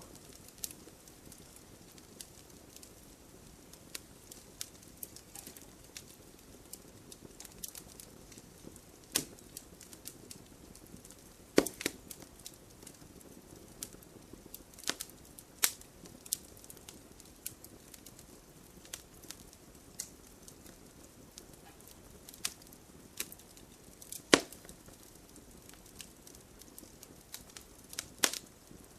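Wood fire crackling in a fireplace: irregular sharp pops and snaps over a soft, steady hiss, with a handful of much louder snaps among many small ticks.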